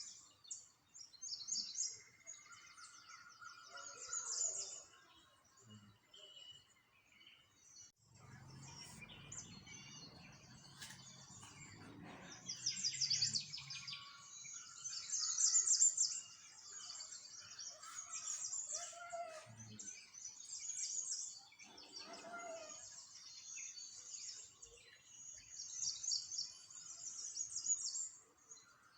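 Small songbirds chirping and singing, with repeated rapid high trills and scattered lower chirps. A low rumble runs underneath for several seconds in the middle.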